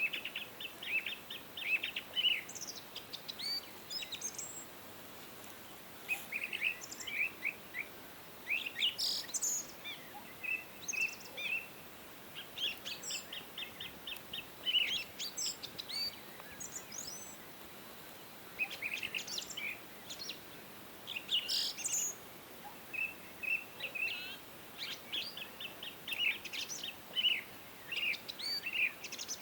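Songbirds singing: runs of short, high, quickly repeated chirps and trills from several birds overlapping, over a faint steady hiss.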